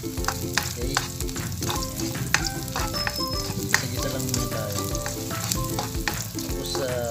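Garlic and onion sautéing in hot oil in a metal wok, sizzling steadily, with frequent sharp clicks and scrapes of a spatula against the pan as it is stirred. The sizzle marks the aromatics beginning to brown.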